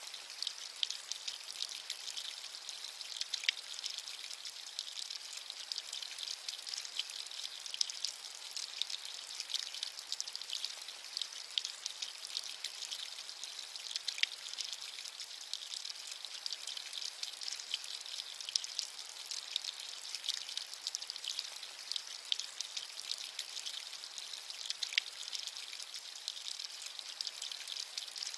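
Steady rain falling, a high, even hiss made of many small drop ticks, with little low rumble.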